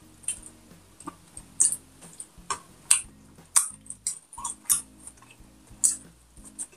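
Close-miked eating sounds: chewing and lip smacks while eating rice and pork by hand, about a dozen sharp, separate wet clicks.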